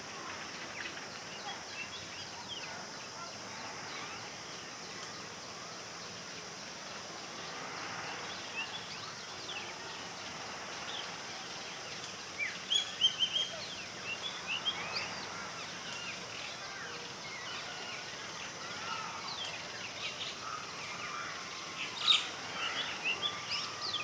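Birds chirping in short, high, quick calls, in bursts about halfway through and again near the end, over a steady outdoor background hiss.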